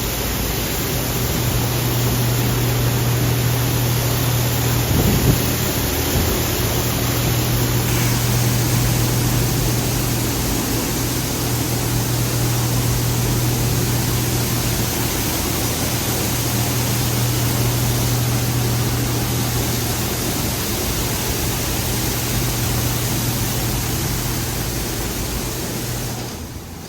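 Oasis Typhoon in-bay automatic car wash spraying water and soap at a vehicle: a steady, loud hiss of spray over a steady low hum from the machine, cutting off suddenly near the end.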